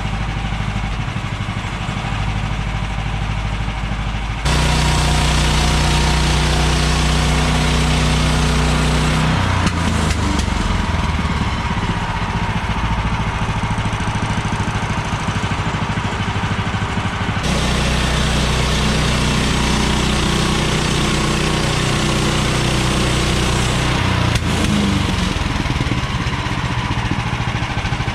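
Gas engine of a manual Woodland Mills bandsaw mill running. It speeds up about four seconds in, then its pitch sags and steadies several times as the blade takes load in a log.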